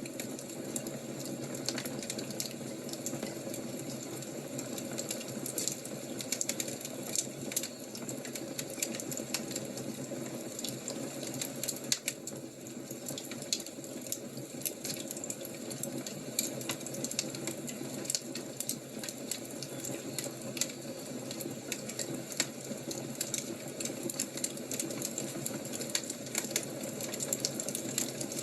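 Fire crackling: a steady low hiss of burning with frequent irregular sharp pops and snaps.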